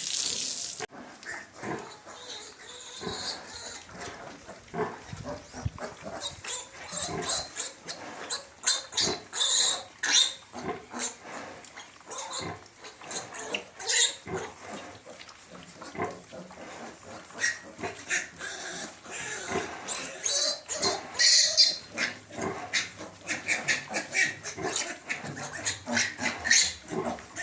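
Animals making irregular short calls and noises, with squeaky high-pitched sounds scattered throughout.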